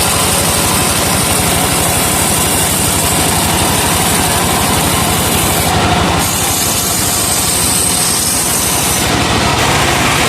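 Truck-engine-powered sawmill running under load, the engine's steady, even beat beneath the high whine of the saw blade cutting laban wood. The high saw sound thins out briefly about six seconds in and again near the end.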